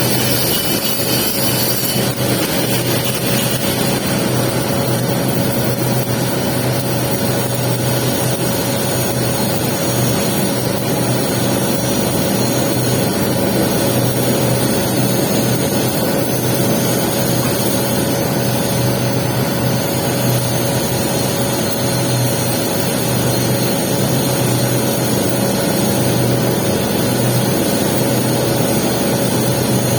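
Welding arc hissing and crackling steadily on the capping pass of a 6G pipe weld, over a steady machine hum.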